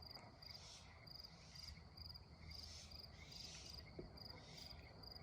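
Faint crickets chirping in regular repeated pips, with a few soft rustles underneath; otherwise near silence.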